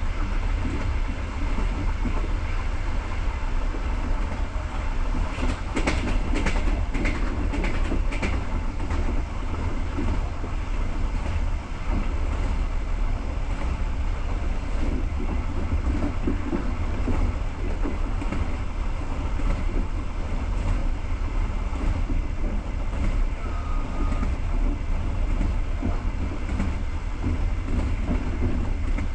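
Passenger train coach running along the track: steady low rumble of wheels on rails, with a run of sharp clicks about six to eight seconds in.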